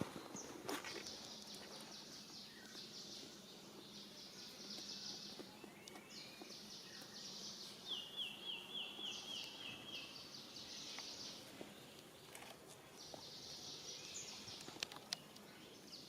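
Outdoor natural ambience: high, rapidly pulsing insect-like buzzing in repeated bouts of a second or two. About halfway through, a bird gives a quick run of about eight evenly spaced high notes, and there are a few faint clicks.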